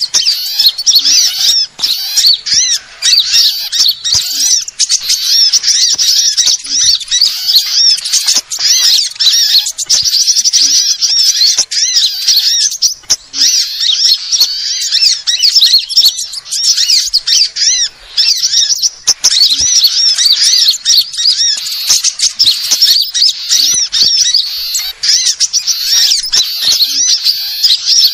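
Bird-lure recording of sunbirds and other small songbirds: a dense run of rapid, high-pitched chirps and twittering notes, many overlapping, without a real pause.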